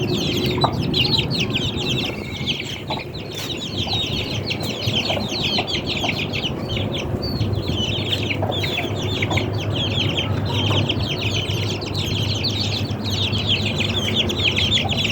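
Aseel chickens clucking, over a steady, dense high-pitched chirping that never lets up.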